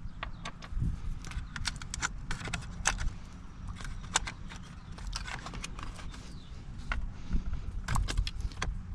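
Irregular small clicks and taps of a screwdriver and hands working the screws and plastic trim pieces of a steering wheel.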